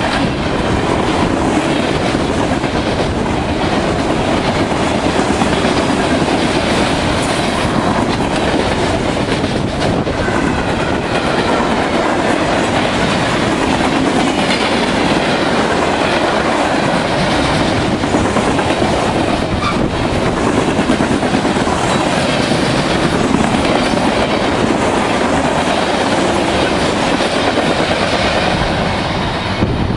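Freight train rolling past close by: the steel wheels of tank cars, covered hoppers and boxcars running on the rails in a loud, steady stream of wheel noise.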